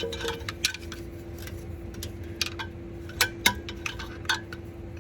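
Ratchet wrench clicking and metal tools clinking in sharp, irregular ticks as a bolt is worked a tooth at a time.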